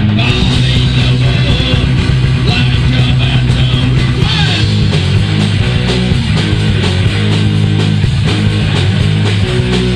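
Heavy metal band playing: electric guitar, bass and drum kit, loud and continuous.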